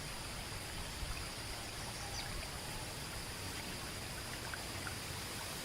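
A steady, even rushing hiss like running or trickling water, with a faint, high, steady whine above it.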